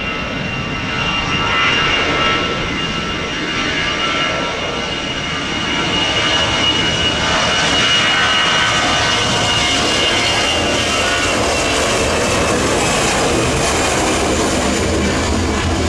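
Jet airliner engines running: a steady high whine over a rush of engine noise, growing louder about six seconds in.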